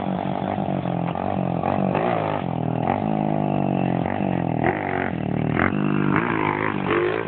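Pit bike engine revving up and falling back several times as the bike is ridden, the pitch climbing and dropping with each throttle burst or gear change.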